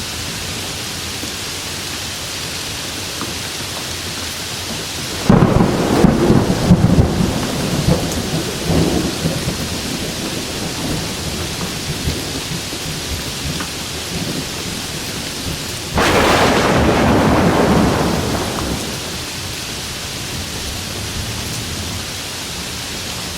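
Steady heavy rain with two claps of thunder: a sudden crack about five seconds in that rumbles on for a few seconds, and another sudden loud peal at about sixteen seconds that holds for two seconds before fading back into the rain.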